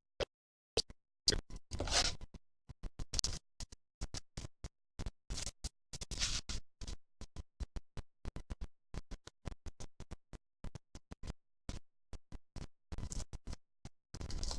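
Choppy, broken-up recording: short fragments of sound repeatedly cut off by dropouts to dead silence, giving a stuttering, glitching effect from a faulty audio feed.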